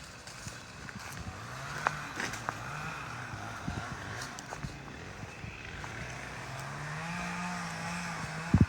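An engine running, its pitch rising and falling, with scattered light knocks and a sharp double knock near the end.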